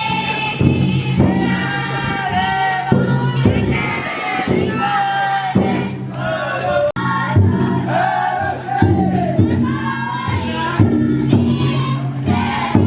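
Futon daiko bearers chanting and shouting together in long, drawn-out calls while carrying the float.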